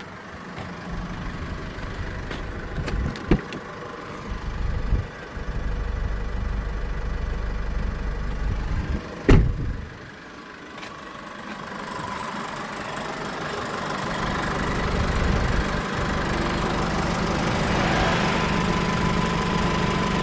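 Holden Colorado's LWN 2.8-litre four-cylinder turbo-diesel running, with a sharp click about three seconds in and a loud knock about nine seconds in. In the second half the level slowly climbs and a steady high whine comes in.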